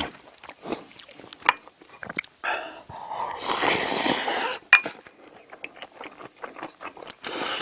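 Close-miked eating sounds: soft clicks and ticks of a spoon and the mouth chewing. A loud, breathy rush of air lasts about two seconds in the middle, with a shorter one near the end.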